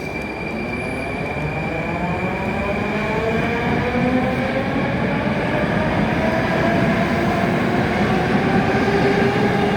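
A train setting off, with a whine of several tones that rises in pitch over a rumble and grows steadily louder.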